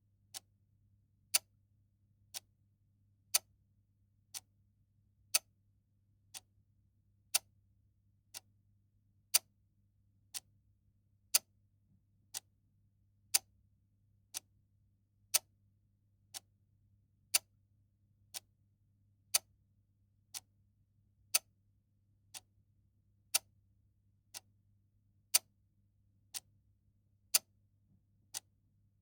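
Clock ticking once a second in an even tick-tock, every other tick louder than the one before.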